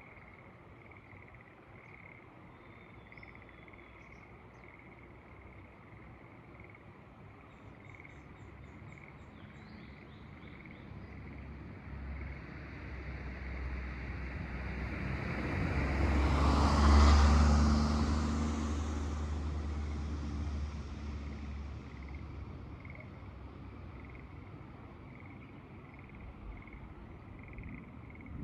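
Frogs calling in a steady pulsing chorus, while a motor vehicle approaches, passes at its loudest a little past halfway, and fades away. A few brief high bird chirps come in the first third.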